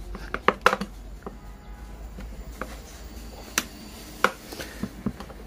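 A pry bar levering at the plastic housing of a Bear electric rice cooker: about half a dozen separate sharp plastic clicks and taps.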